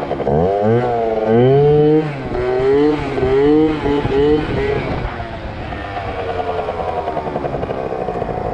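Yamaha ZR Evo two-stroke scooter engine revved in a string of quick throttle blips, its pitch rising and falling about five times. It then runs on more steadily, the pitch slowly climbing.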